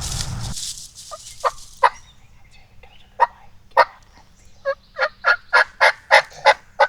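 Turkey yelping: a series of short, sharp notes, a few scattered at first, then an even run of about three a second through the second half. Background music cuts off in the first second.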